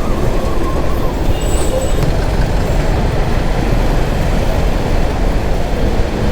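Steady wind and road noise of a motorcycle riding in city traffic, with the engine and surrounding vehicles blended into a continuous low rush.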